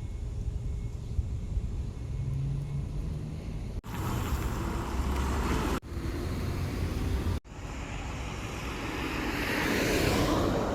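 Street traffic with low wind rumble on the microphone. A vehicle passes, growing louder to a peak near the end and then fading. The sound drops out briefly three times.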